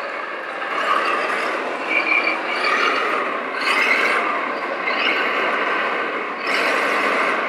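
Radio-controlled model trucks running: small electric motors and gearboxes whining steadily, with several louder surges as they drive under load.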